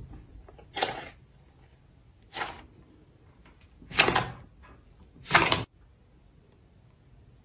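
Slime being squished by hand: four short, wet squishes about a second and a half apart, the last two loudest.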